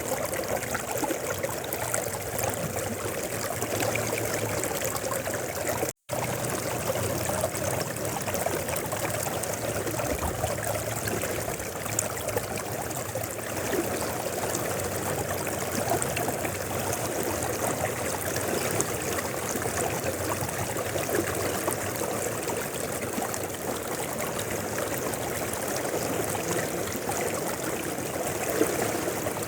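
Mountain river flowing steadily, a continuous rush of running water. The sound cuts out for an instant about six seconds in.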